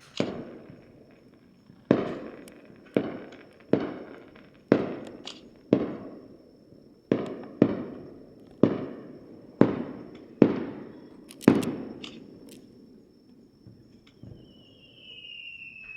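Aerial fireworks shells bursting: about a dozen loud booms, roughly one a second, each trailing off in an echoing rumble, stopping about twelve seconds in. A faint, falling whistle-like tone follows near the end.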